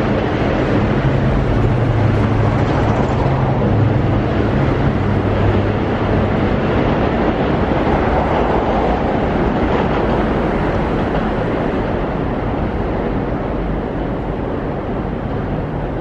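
Long Island Rail Road Kawasaki M9 electric multiple-unit train pulling away and receding down the track: a steady rumble of wheels on rail that slowly fades, with a low hum that dies away about six seconds in.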